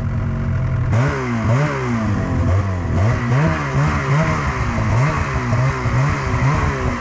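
Snowmobile engine running under load, its revs rising and falling over and over about twice a second from about a second in, with a steady hiss of track and snow underneath. This is a rider working the throttle for traction on a steep, crusty side hill.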